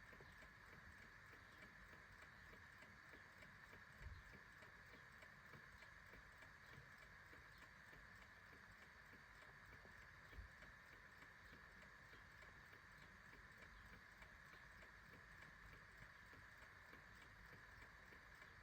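Faint, steady ticking of a clock over a constant low hiss, with two soft low thumps, one a few seconds in and one about halfway through.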